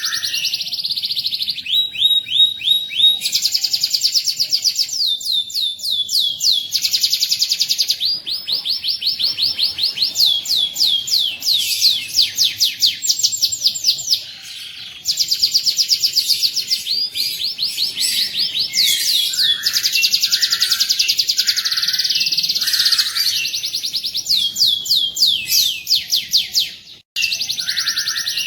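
Domestic canary singing a long song of fast rolling trills, each made of rapidly repeated notes, breaking off briefly about halfway through and again near the end.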